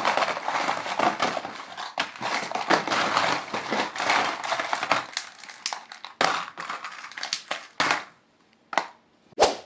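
Candy wrapper crinkling as it is handled and crushed: a dense, continuous crackle for about five seconds, then a few separate sharp crinkles with short gaps between them.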